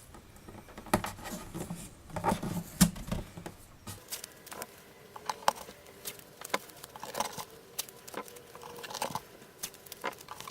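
Adhesive tape being pulled off the roll, torn and pressed down to clamp a freshly glued binding joint on an acoustic guitar body: irregular small clicks, taps and rustles of handling.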